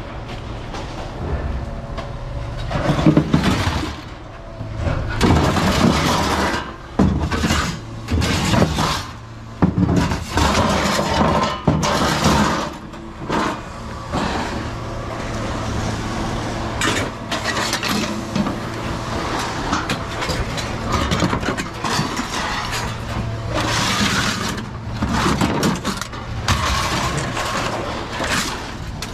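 Scrap metal clattering and crashing in irregular bursts as it is handled and thrown, over a steady idling engine.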